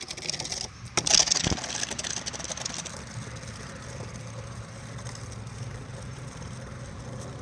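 Toy remote-control helicopter's small electric motor and rotor whirring with a steady low hum. A rush of noise starts about a second in and fades out by three seconds.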